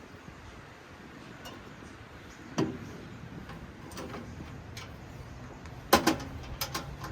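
A few scattered knocks and clicks, the loudest a sharp cluster about six seconds in, over a faint steady hiss.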